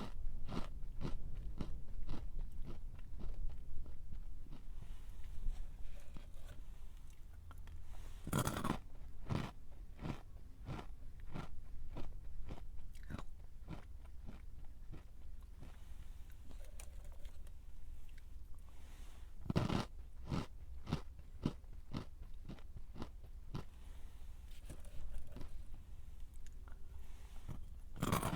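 Close-up crunching of a crisp snack being bitten and chewed: a steady run of fast crackling chews, with a louder bite about eight seconds in, another around twenty seconds in and one more at the very end.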